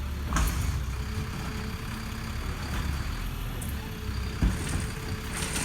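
Recycling truck running with a steady low rumble and a faint steady whine, broken by two sharp knocks, one about half a second in and one near the end.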